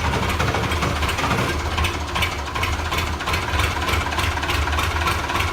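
Oliver 1850 tractor's diesel engine running just after catching on a hard cold start, with a steady low rumble and a clatter that comes in about two seconds in.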